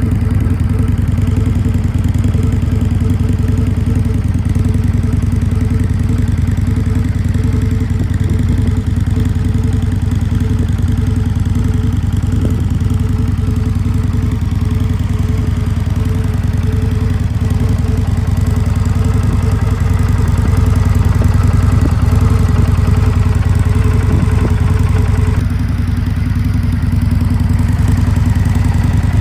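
Indian Scout Bobber Limited's V-twin engine idling steadily, with a slight change in tone about 25 seconds in.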